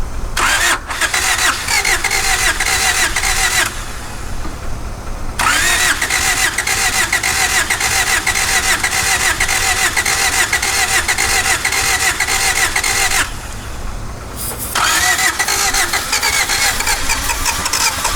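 Starter motor cranking the 1991 Honda CRX Si's four-cylinder engine in three attempts: a short one, a long one of about eight seconds, and a third starting near the end. Each opens with a rising whine and then turns over evenly without catching, the cylinders still full of the diesel poured in to free the seized engine.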